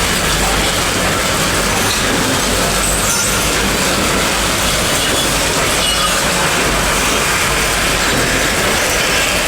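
Train in motion, a loud, steady rumble and rattle of the carriage running along the track.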